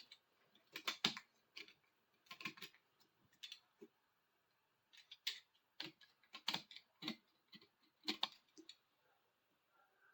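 Short, sharp scraping clicks in small irregular clusters with pauses between: leftover tape glue being scraped off the handle of a bar clamp.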